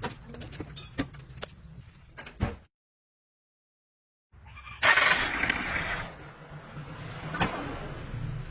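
Metal clinks and knocks from hand tools at work, broken off by a second and a half of dead silence, then a loud rushing noise lasting about a second and one sharp knock near the end.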